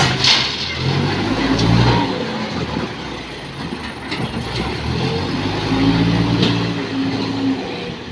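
Diesel engine of a backhoe loader working, its pitch rising and falling as it revs, with a few sharp clanks scattered through.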